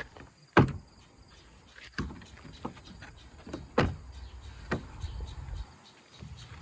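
Tailgate clunking and knocking as it is worked against its hinge notches, which are cut too small for it to seat. About five separate knocks, the first, about half a second in, the loudest.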